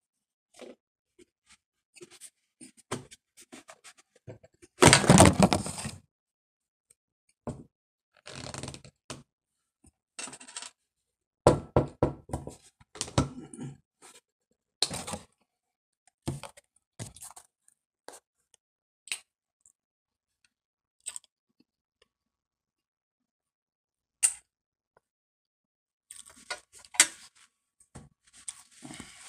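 Close-up mouth sounds of chewing a mouthful of dry cornstarch: scattered crunches and clicks in irregular bursts, the loudest about five seconds in, with quiet gaps between.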